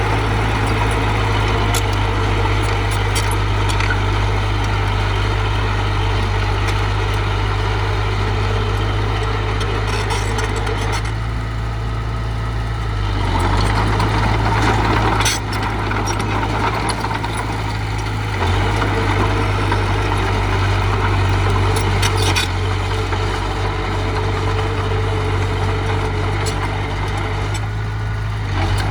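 Diesel engine of earthmoving machinery running steadily, with a few sharp clanks along the way.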